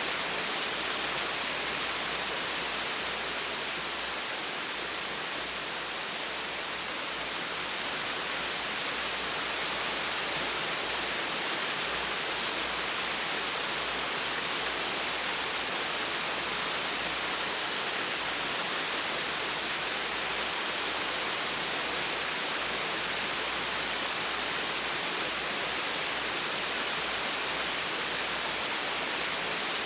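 Small waterfall splashing steadily, a constant hiss of falling water.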